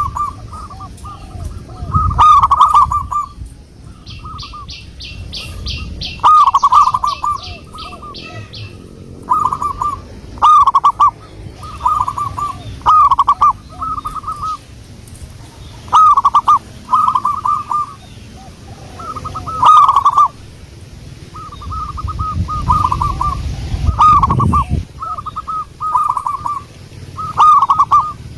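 Zebra doves cooing: short bursts of quick, repeated coo notes, one every second or two. A separate rapid, high trill sounds from about three to eight seconds in.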